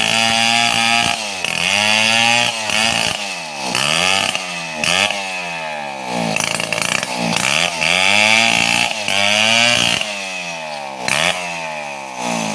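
Two-stroke chainsaw ripping along a mahogany log, its engine speed rising to full revs and dropping back again and again as the throttle is worked.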